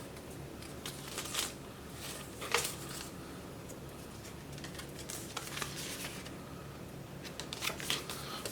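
A few brief rustles and clicks of packaging and parts being handled while searching through a box, over a faint steady low hum.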